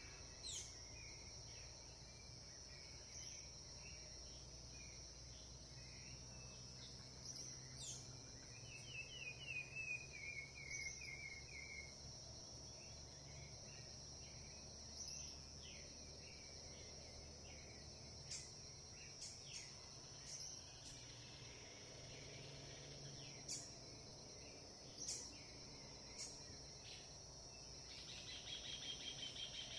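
Faint outdoor chorus of crickets or other insects making a steady high drone, with wild birds chirping sporadically over it. About ten seconds in, a bird gives a quick falling run of notes, and near the end there is a fast buzzy trill.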